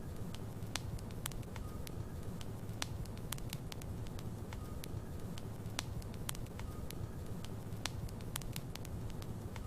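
Wood fire burning in a fireplace, logs crackling and popping at irregular intervals over a steady low rumble of flame.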